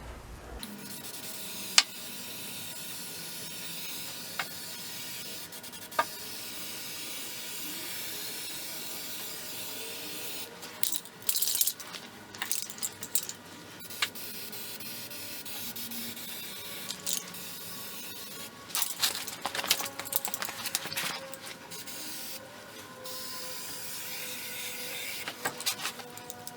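Aerosol can of Fluid Film undercoating spraying into a car's wheel arch: a steady hiss with louder spurts of spray from time to time, and a few sharp clicks in the first six seconds.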